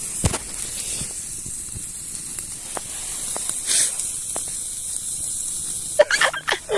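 Campfire crackling with a steady hiss and scattered sharp pops, fat from roasting meat sizzling in the flames. A brief voice is heard near the end.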